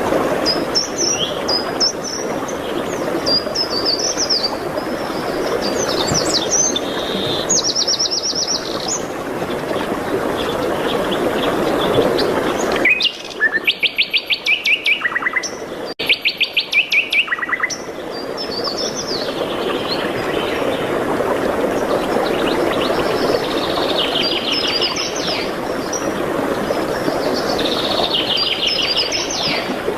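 Several songbirds singing, with short high chirps and quick trills over a steady background hiss. For a few seconds in the middle the hiss drops away and a loud, fast trill of evenly repeated notes stands out.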